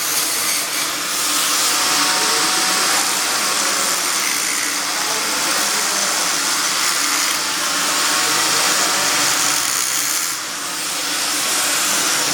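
Flux-cored arc welding on carbon steel: a steady, crackling hiss of the welding arc, which dips briefly about ten seconds in.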